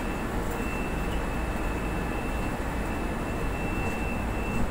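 Steady rumble and hum inside an MRT-3 light-rail train car, with a faint steady high-pitched tone running through most of it.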